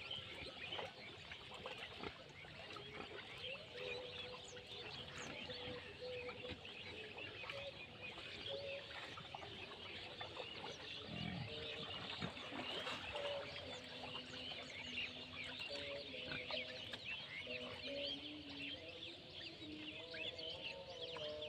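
Busy chorus of small birds chirping without pause, with longer held calls joining in and growing more frequent toward the end.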